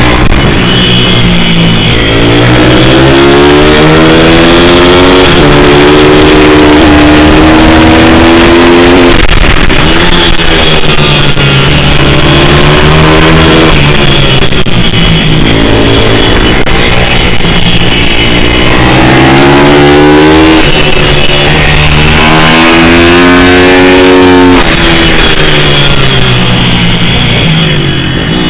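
Pit bike's small single-cylinder four-stroke engine at high revs, pitch climbing through the gears and dropping off again, over and over as it accelerates out of corners and brakes into them on a track.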